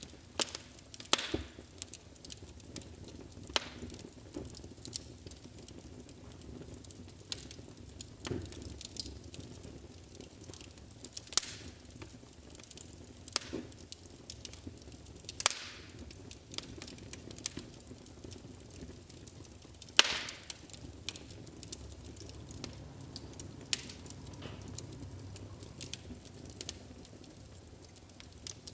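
Wood fire in a fireplace crackling, with irregular sharp pops and snaps over a low, steady hiss and rumble of burning logs. A few louder pops stand out, the loudest about twenty seconds in.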